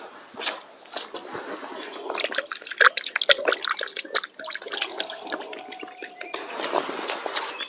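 Water splashing and dripping, with a run of small sharp clicks and knocks that is busiest and loudest between about two and four seconds in.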